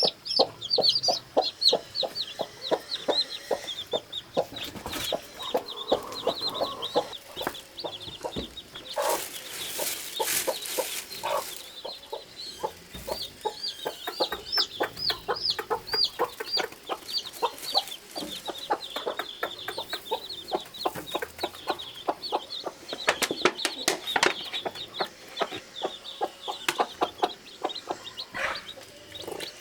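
Newly hatched chicks peeping continuously in quick, high, rising-and-falling cheeps, with many short, lower clucks mixed in. About nine seconds in there is a couple of seconds of rustling.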